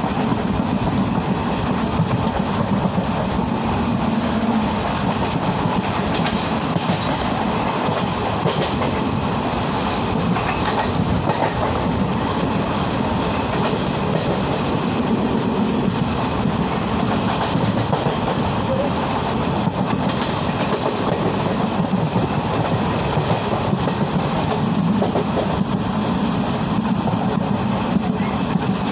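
Train running along the track: a steady rumble of wheels on rails, with scattered clicks as the wheels pass over rail joints.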